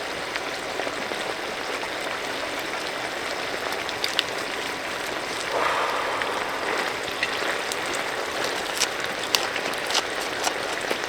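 Firewood burning: a steady hiss with scattered sharp pops and crackles.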